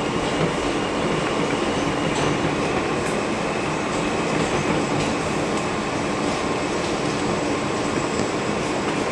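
Steady rumble and hum of an R160B subway car, with a few faint clicks.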